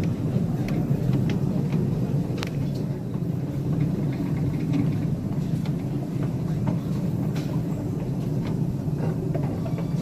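Ride-on live-steam railroad train rolling along the track: a steady rumble with irregular clicks and knocks from the wheels on the rails.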